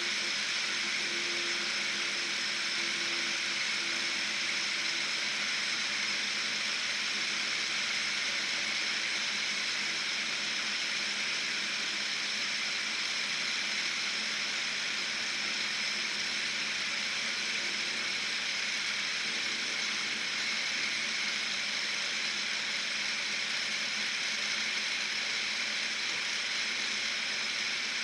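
Fidget spinner whirring steadily on its ball bearing.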